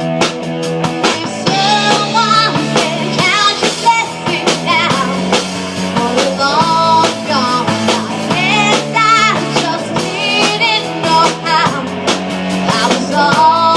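Rock band playing live: a steady drum kit beat with bass and guitar, and a high lead melody that bends and wavers in pitch over it.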